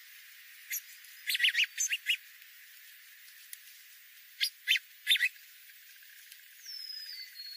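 Bird calls: short, sharp chirps in a few quick clusters, then a single falling whistle near the end.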